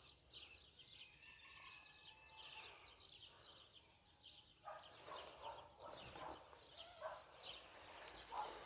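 Faint bird chirps and calls, many short high chirps with a few held whistled notes, over quiet open-air background.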